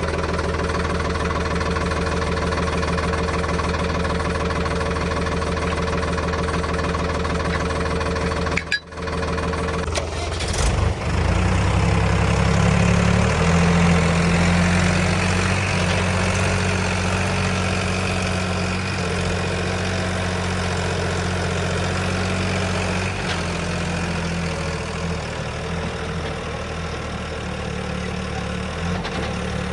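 Diesel tractor engine running steadily. About nine seconds in the sound breaks off for a moment; then the engine runs louder for a few seconds and settles back to a steady run.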